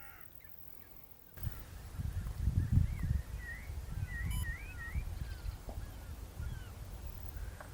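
A bird calling, a quick run of short curving chirps about halfway through, over a low rumble that starts a second or so in.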